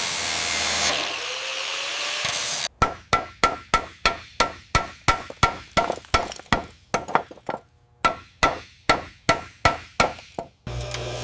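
A steady hiss, then a hammer striking repeatedly at about three blows a second, each blow with a short ring, pausing briefly midway. A humming machine starts up near the end.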